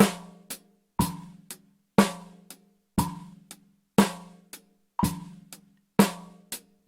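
Drum kit playing a simple beat at 60 BPM along with a metronome click on every quarter note: a strong drum hit once a second, with a lighter hit halfway between.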